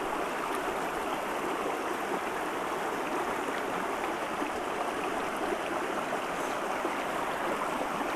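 A small, shallow mountain creek running low over rocks: a steady, even rush of flowing water.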